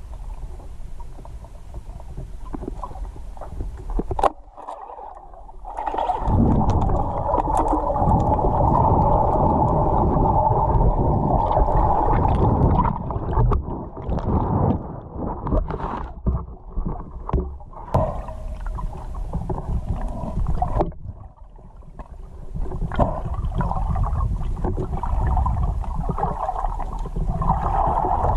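Small fishing boat under way on the water: a steady hum with low rumble and water noise, fading for a while in the middle and coming back near the end, with scattered knocks.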